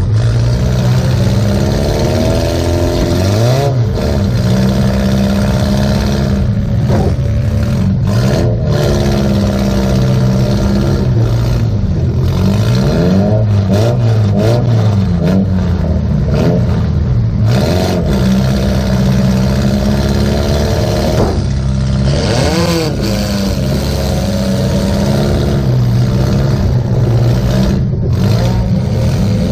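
Demolition derby car's engine heard from inside the cabin, revving up and down again and again as it drives and hits, its pitch rising and falling every few seconds.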